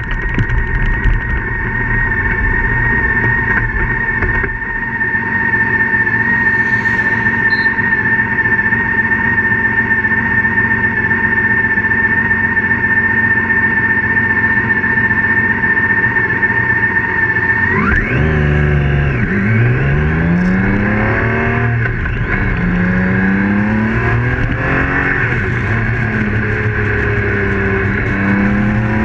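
BMW K1600GT police motorcycle's inline-six engine, heard from on the bike, running at a steady cruise with a steady high whine. About two-thirds of the way in it starts accelerating, its pitch climbing again and again through several gear changes.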